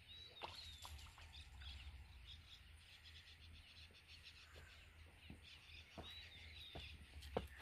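Faint outdoor birdsong: scattered chirps, with a high arched call twice, near the start and again about six seconds in, over a low steady rumble and a few light clicks.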